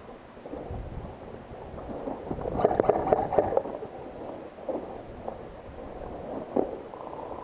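Muffled rumbling and rustling, with a quick run of sharp clicks about three seconds in and one more sharp click near the end.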